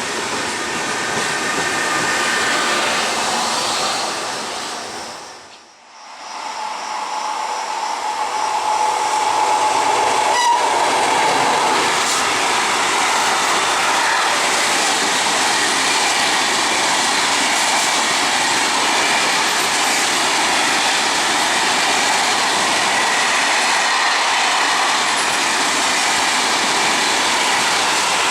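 Train running through a railway station: a loud, steady rush of wheels on rail. Near six seconds the sound dips sharply and briefly. A steady high tone is held for a couple of seconds soon after, and then the rolling noise stays loud.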